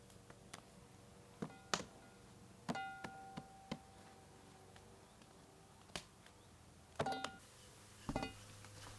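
Scattered knocks and clinks, a few of them ringing briefly with a clear pitch, as of kitchenware being handled, over a faint steady low hum.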